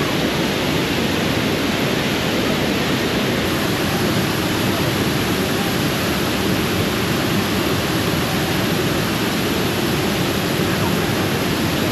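Waterfall rushing steadily, a constant even roar of falling water heard up close.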